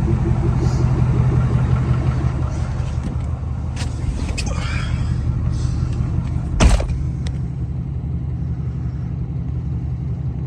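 Truck engine idling just after a cold start, a steady pretty loud low rumble that eases slightly about three seconds in. A few light clicks and one sharp thump about two-thirds of the way through.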